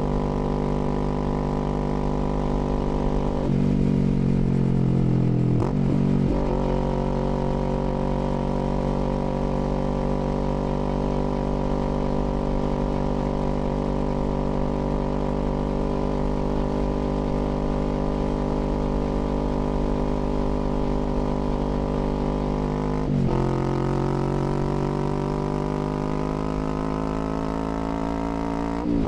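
Kawasaki Z400's parallel-twin engine running under way, mostly at a steady pitch while cruising. Its note breaks briefly for gear changes about four and six seconds in and again around twenty-three seconds, after which the revs climb as it accelerates, with another shift near the end.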